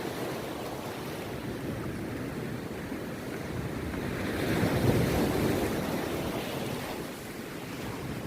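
Rough sea surf breaking on a beach, a continuous wash that swells as a wave crashes about five seconds in and then ebbs. Wind buffets the microphone.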